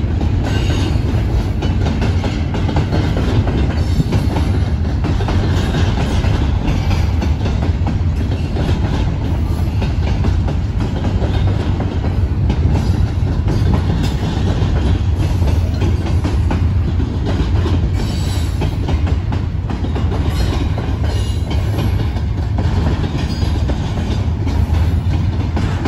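Double-stack container train's cars rolling past, a steady rumble of steel wheels on the rails that does not let up.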